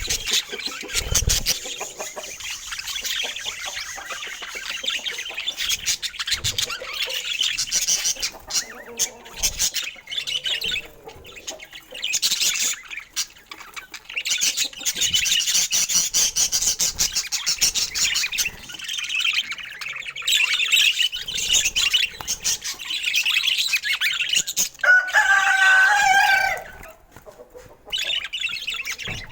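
Budgerigars chattering and warbling continuously, a dense stream of high chirps and clicks. About 25 seconds in, a louder, lower-pitched call stands out for a second or so.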